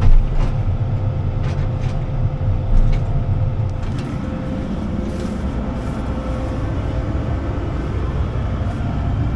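Combine's diesel engine running steadily at a low rumble, with a faint steady whine and a few light clicks, as the machine is maneuvered to set its header onto a header mover.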